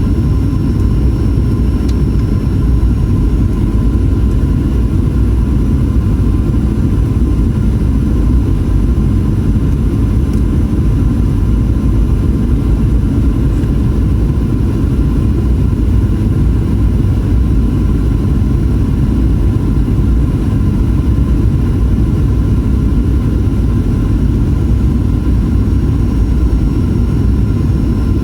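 Steady cabin noise of a Boeing 737-800 in flight toward landing: a deep, even rumble of its CFM56 engines and the airflow, with a faint steady whine over it.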